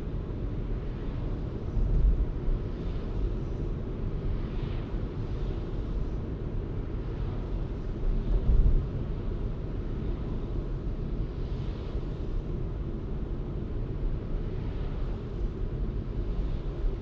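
Steady low rumble of a car driving, road and tyre noise with the engine underneath, with two louder low swells, about 2 s and 8.5 s in.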